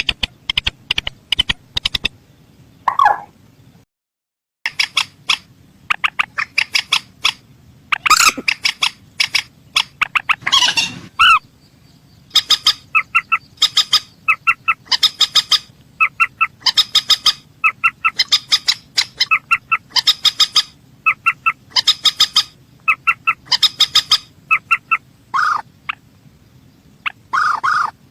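Recorded calls of a mandar sawah rail played as a bird lure: quick bursts of short, sharp, clucking notes repeated over and over, with a few lower, longer, hoarse notes among them. The sound drops out completely for under a second about four seconds in.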